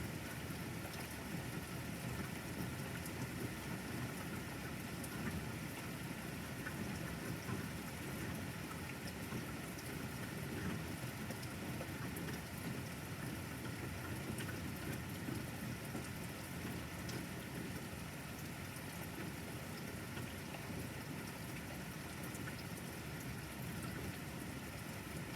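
Steady rain falling, with scattered drop ticks over a constant hiss.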